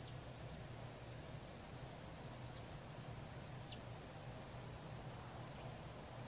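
Faint steady low hum of open-air ambience, with a few faint, very short high bird chirps scattered through.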